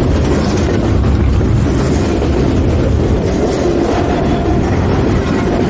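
CSX freight train rolling past, a steady rumble of wheels on rails with some clickety-clack.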